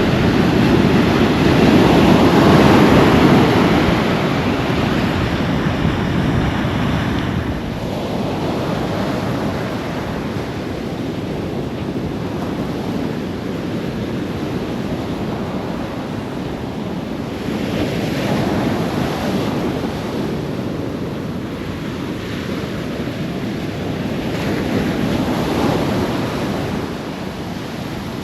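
Strong Atlantic surf at high tide, waves breaking and washing up the beach in slow swells. The biggest comes in the first few seconds and two smaller surges follow later.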